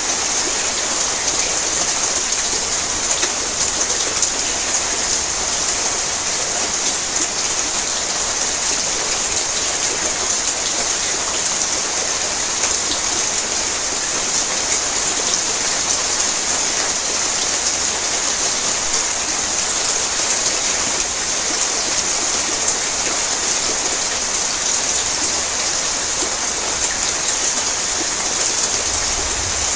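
Heavy rain falling on a tin roof: a steady, dense hiss, brightest in the treble, flecked with sharp ticks of single drops striking the metal.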